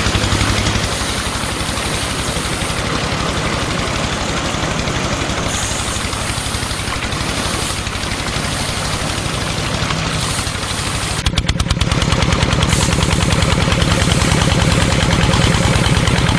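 A motor running with a rapid, even pulsing, like a small engine idling; about eleven seconds in it shifts to a louder, deeper hum.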